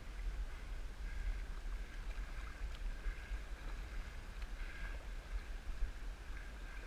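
Wind buffeting the microphone out on open water, a gusty low rumble with a faint, steady high tone over it.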